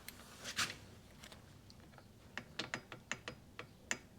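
Faint metal-on-metal clicks and taps of clutch gears and parts being fitted onto the shafts of a motorcycle engine's crankcase: a soft rustle about half a second in, then a scattered run of small clicks in the second half.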